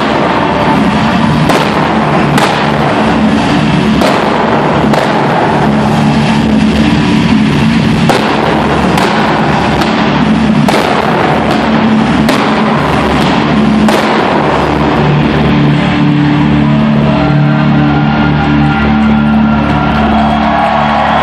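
Loud rock music over an arena sound system, with indoor fireworks going off: sharp bangs every second or two over the music while sparks cascade from the scoreboard.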